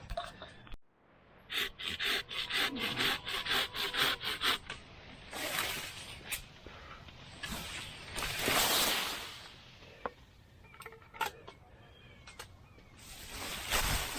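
A saw cutting a branch with rapid back-and-forth strokes, about four or five a second, for about three seconds, followed by several longer swishing rustles of leaves and branches.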